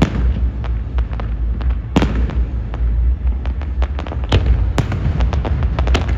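Aerial fireworks exploding in quick succession: many sharp cracks and bangs over a continuous deep rumble of booms, with a big burst at the start and another about two seconds in.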